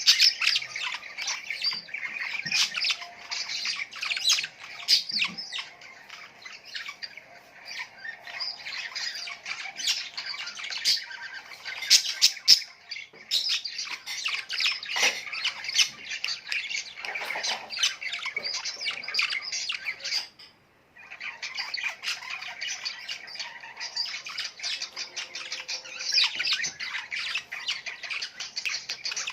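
A flock of small birds chirping and squawking together in a dense, continuous chatter, with a brief break of under a second about two-thirds of the way through.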